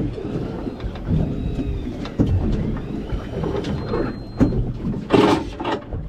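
Wind buffeting the microphone as a rough low rumble, with scattered knocks and a louder gust about five seconds in.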